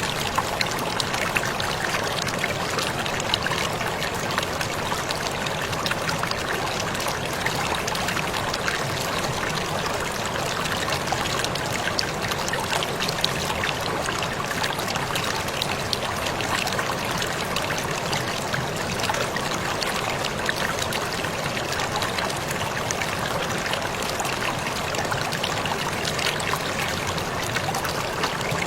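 A waterfall's steady rush of falling water, with many fine splashes and drips throughout.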